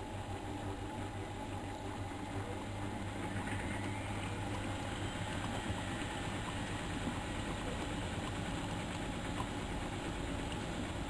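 Miele Novotronic washing machine running a 95 °C boil wash: a steady motor and drum hum with a low drone.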